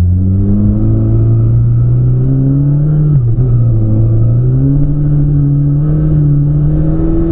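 Car engine heard from inside the cabin, pulling hard through the gears: its note climbs steadily, drops sharply at a gear change about three seconds in, climbs again and drops at the next shift near the end.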